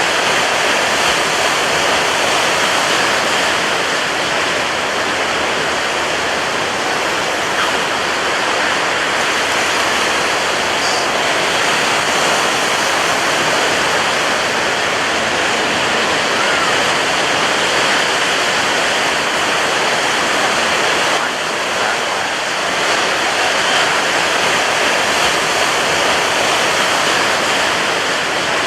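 Ocean surf washing onto a beach in a dense, continuous rush, with barely any rise or fall between waves.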